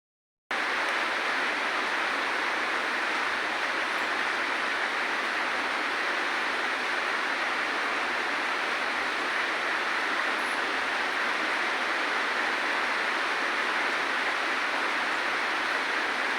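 Steady rain falling, an even hiss that starts about half a second in and holds at a constant level.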